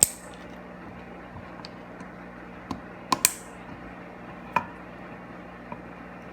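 A handful of sharp clicks and taps from small hard parts and tools being handled during a repair. The loudest comes right at the start, two come close together about three seconds in and another about a second and a half later, all over a steady low hum.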